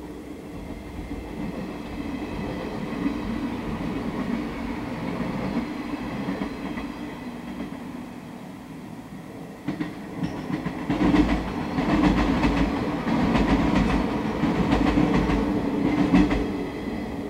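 Yellow JR West electric commuter train passing on the main line. A rumble builds over the first few seconds, then about ten seconds in a loud rapid clatter of wheels over rail joints starts suddenly and runs for about six seconds before easing near the end.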